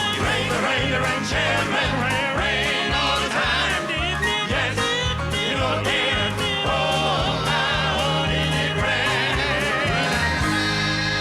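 Southern gospel group singing with an upbeat band, a walking bass line and drums, going into a long held chord near the end.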